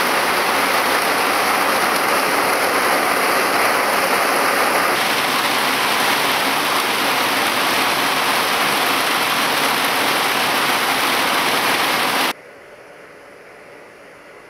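Very heavy rain pouring down in a loud, steady rush. About 12 seconds in it cuts abruptly to much quieter rain.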